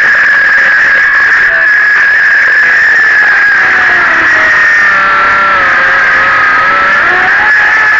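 Battery-powered saw cutting wood, its motor whining steadily at full speed, the pitch wavering a little as the blade takes load.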